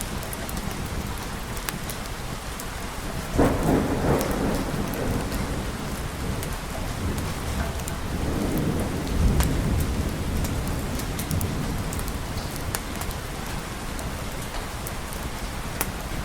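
Steady rain with scattered drop ticks, and a thunderclap breaking in about three seconds in, its low rumble rolling on and swelling again around nine seconds.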